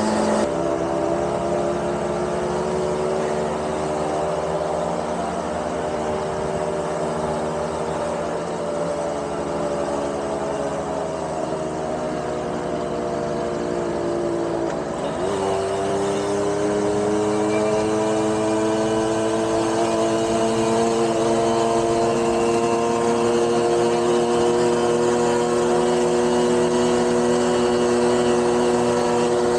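Small 50cc two-stroke moped engine running under load on a climb. Its pitch slowly sags, dips sharply about halfway, then climbs gradually.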